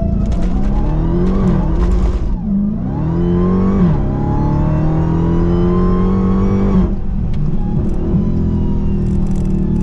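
Dodge Charger Hellcat's supercharged 6.2-litre V8, mid-mufflers deleted, accelerating hard. Its pitch climbs and drops back sharply at each upshift, with the longest pull ending about seven seconds in, and it runs steadier after that.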